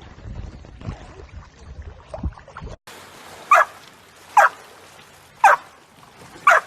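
A dog barking four times, about a second apart, each bark short and falling in pitch. Before the barks there is a low, rough background noise.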